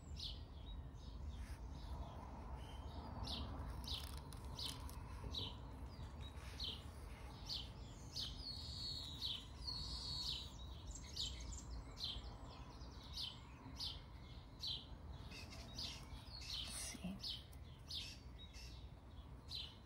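Small birds chirping in the background: short chirps repeated one or two a second, with a brief warbling phrase about halfway through, over a low steady rumble.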